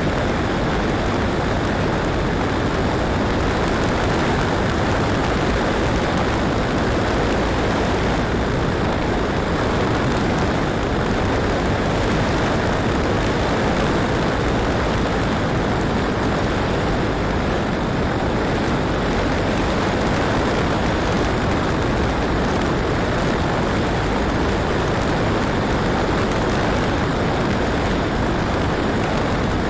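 Loud, steady rushing and rumbling of strong wind buffeting the microphone, with no engine tone.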